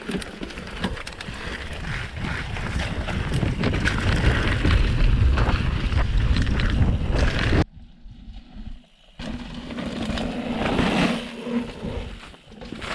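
Mountain bike ridden down a rough trail: wind rushing over the microphone with rattling and knocks from the bike and tyres. The noise drops away abruptly for about a second and a half just past halfway, then comes back.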